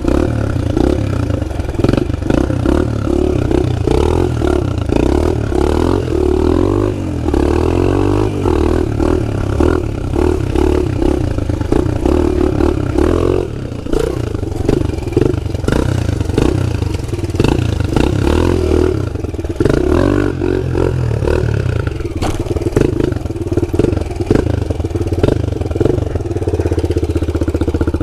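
Small pit bike engine running under way, revving up and down as it is ridden over dirt, with some rattling knocks. It settles to a steadier note near the end.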